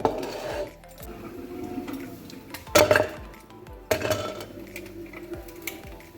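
Dishes and cutlery clinking and knocking, with a few sharp clatters about a third and two thirds of the way through, over background music.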